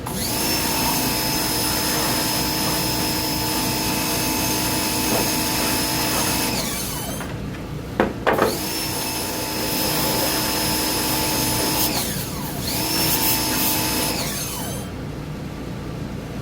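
A power tool's electric motor running in three long bursts, spinning up and winding down each time, with a click in the short pause about eight seconds in.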